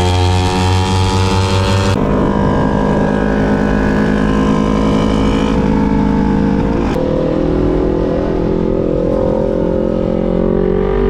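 250 cc sport motorcycle engine running under way. The engine note changes abruptly about two seconds in, breaks off briefly near seven seconds, then climbs steadily as the bike accelerates.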